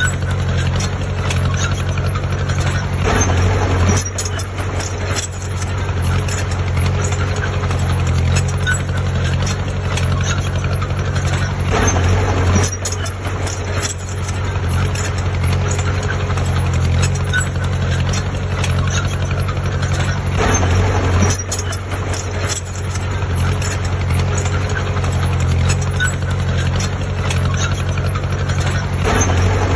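Heavy diesel engine of earthmoving machinery running steadily, with the engine note surging louder about every eight or nine seconds.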